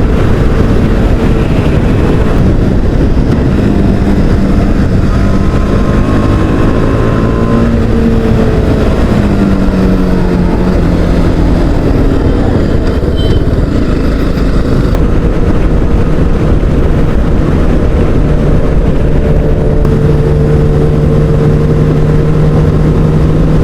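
TVS Apache RR310 motorcycle engine under way, its pitch rising and falling as the rider works through bends and gears, then holding steady at a cruise near the end, with wind rushing over the helmet microphone.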